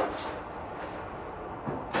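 Intermittent knocks and clunks of work on a car body: a sharp knock at the start, a fainter one just under a second in, and another near the end.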